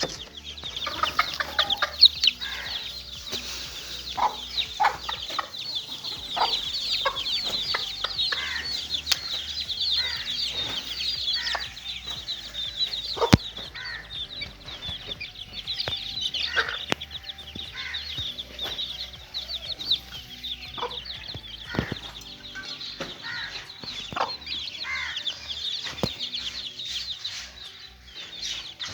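A brood of young chicks peeping constantly, a dense chorus of short high chirps, with occasional lower clucking calls and a few sharp taps.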